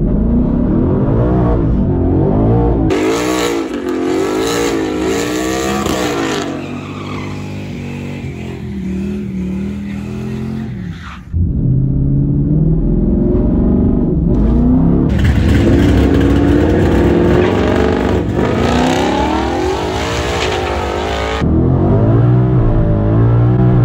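Twin-turbocharged 5.0 V8 of a 2019 Ford Mustang GT heard from inside the cabin, revving up and down in bursts with a loud hissing noise while staged on the brakes at about 3,000 rpm, which the brakes can't hold against the big stall converter. A few seconds before the end it launches and climbs hard through first gear.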